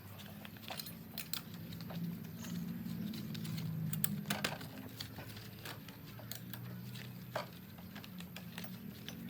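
Scattered light metallic clicks, taps and clinks over a low hum that swells a second or two in and eases again after about four and a half seconds.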